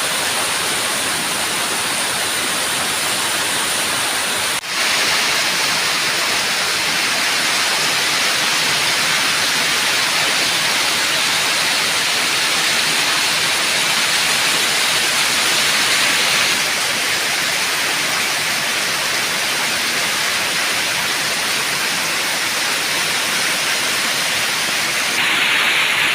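Heavy rain pouring down as a dense, steady hiss, with a brief break about four and a half seconds in.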